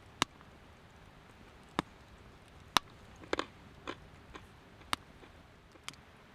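About eight sharp, irregular cracks and clicks over a faint steady background, one of them a quick double crack near the middle.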